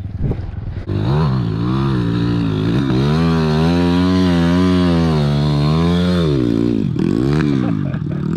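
Pit bike's single-cylinder four-stroke engine revving up about a second in and held at high revs for several seconds, the pitch wavering under load. About six seconds in it drops off, followed by a few short throttle blips.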